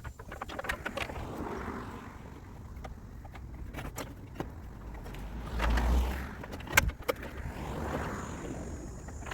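Hand-tool work on a car in a garage: scattered clinks and knocks of metal tools, with a brief low rumble a little past halfway and one sharp knock just after it.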